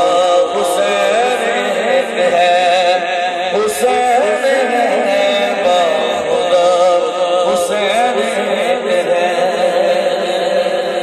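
Male voice singing a long, wordless, ornamented melisma in naat style, held notes wavering and sliding in pitch.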